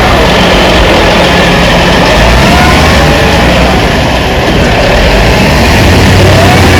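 Heavy equipment diesel engine running loudly and steadily, with the sound dipping slightly about four seconds in.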